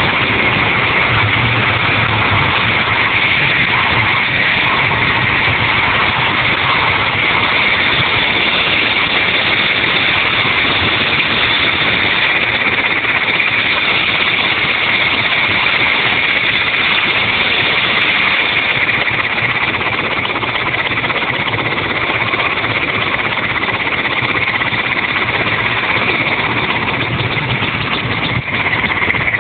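Helicopter turbine and rotor noise, loud and steady, with a constant high whine.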